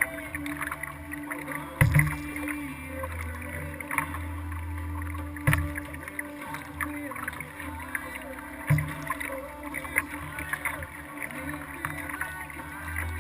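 Kayak under way, heard from a hull-mounted camera: water moving along the hull, with a dull thump every two to three seconds.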